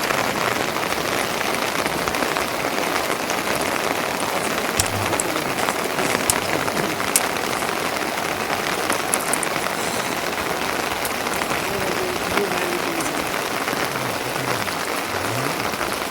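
Steady rain falling, with a few sharper drop impacts standing out now and then.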